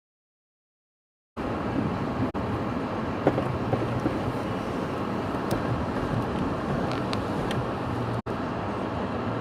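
Storm wind rumbling and buffeting on a phone microphone, with the rush of the sea against a seawall, heard as a steady, loud noise. The audio cuts out completely for the first second or so and drops out briefly twice more: the live stream is glitching.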